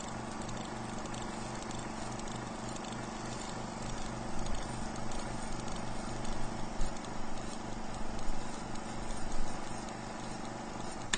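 A stationary engine running steadily in a heat engine lab with a regular low knocking beat. It grows louder and rougher about four seconds in.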